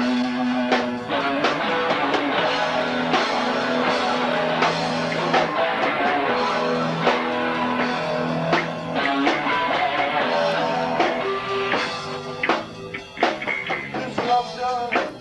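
Live rock trio of electric guitar, bass guitar and drum kit playing an instrumental passage with no singing. The sound thins out after about twelve seconds to sparser guitar notes and drum hits.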